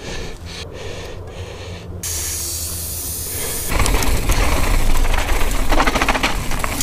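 Air hissing out of a mountain-bike tyre valve for a second or two, about two seconds in, as the rider lets pressure down from a too-hard 3 bar. A louder, steady rushing noise follows from about halfway.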